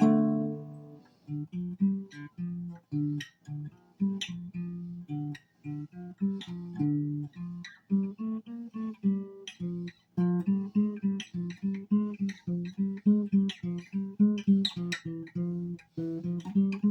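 Guitar played solo: a chord rings out at the start, then a run of single plucked notes, an improvised line moving through scales or modes.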